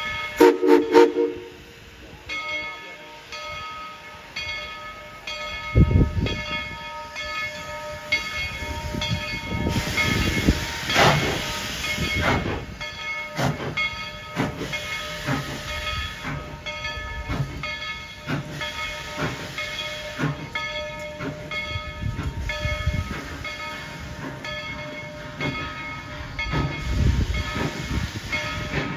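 Tweetsie Railroad's steam locomotive No. 12 gives a short whistle blast at the start. It then runs on with steam hissing and a steady series of metallic ringing strikes, a little more than one a second, with louder surges of steam now and then.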